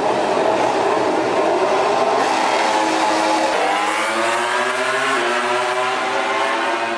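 MotoGP bike's high-revving engine running at full throttle in a practice start. About halfway in, it pulls away and the note climbs steadily with brief dips as it shifts up.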